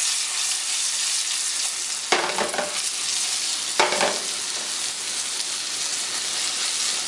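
Chicken cutlet frying in butter and olive oil in a hot pan, a steady sizzle, with two short louder bursts about two and four seconds in.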